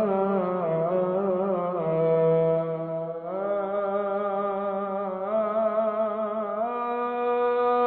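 Solo male voice chanting an Egyptian ibtihal (Islamic devotional supplication), drawing out long held, ornamented notes with no clear words. The pitch steps up about three seconds in and again near the end, into a long held high note.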